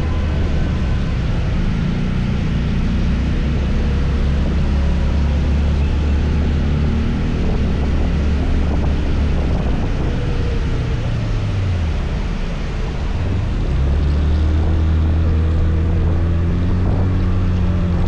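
Motor scooter engine running while riding, with wind and road noise over the microphone. A little past the middle the engine note falls and drops away briefly, then picks up again.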